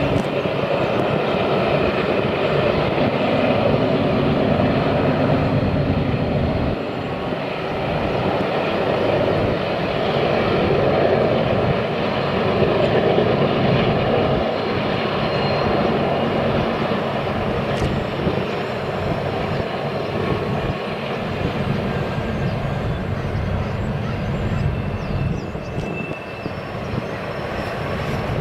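Long train running by with a continuous rumble and a steady engine drone.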